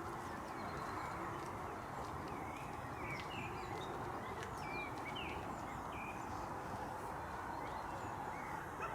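Small birds calling with short chirps, scattered all through, over a steady background noise.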